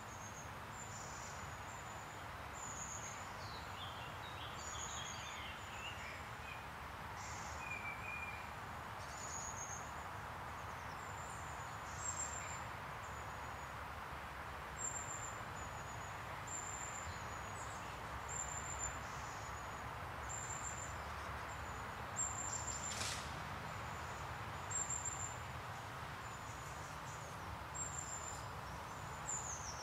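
Small birds calling in woodland: a thin, high chirp repeated about once a second, and early on a short falling run of song notes from another bird. A steady low rumble sits underneath, and a single sharp click comes late on.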